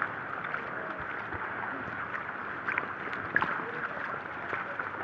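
Rainwater running steadily, with scattered small splashes.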